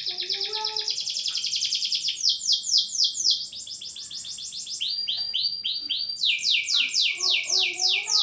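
Domestic canary singing: a fast high trill, then phrases of quickly repeated downward-sweeping whistled notes, about four or five a second, with each phrase pitched differently from the last.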